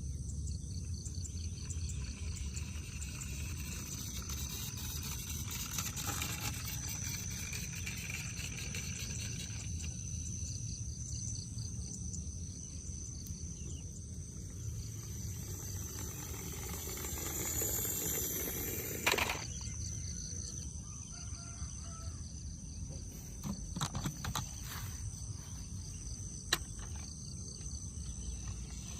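Steady ambient background noise: a constant high-pitched whine over a low rumble, with a few sharp clicks in the second half, the loudest about two-thirds of the way in.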